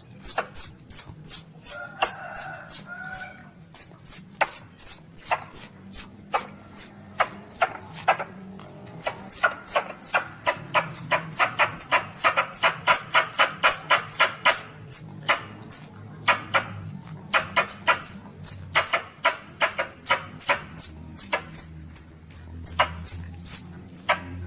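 Asian palm civet kittens calling: a rapid run of short, high-pitched squeaks, each dropping slightly in pitch, about three to four a second, with a couple of brief pauses.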